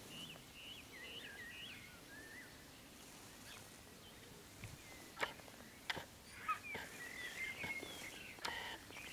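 Songbirds chirping faintly in short calls, with a few sharp clicks in the second half.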